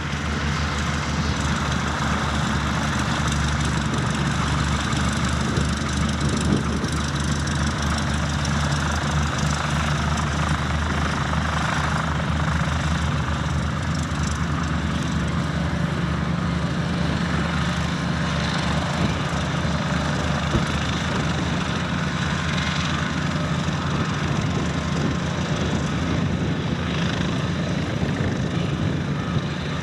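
Light aircraft piston engine and propeller running steadily at a constant speed.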